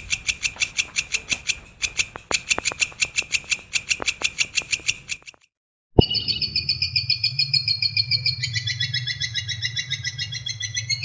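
Edited songbird song from a bird-song master track: a high note repeated fast and evenly, about seven times a second, breaks off into a moment of silence. A sharp click follows, then a rapid trill of several notes over a low hum, its pitch stepping down about two-thirds of the way through.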